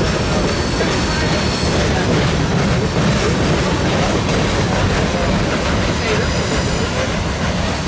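Boxcars of a freight train rolling past, a steady, even noise of steel wheels on the rails.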